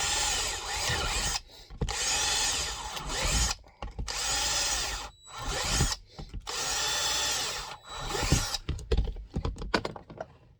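Power drill boring 1/4-inch holes through holster sheet material in several short bursts of running, each stopping and starting again, followed by a few clicks and knocks of handling near the end.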